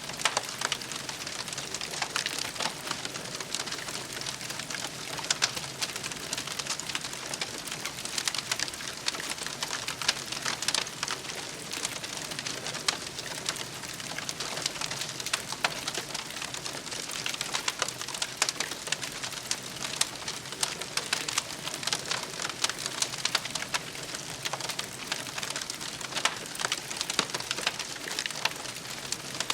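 Campfire crackling: a steady hiss of burning wood with many small, sharp pops and snaps throughout.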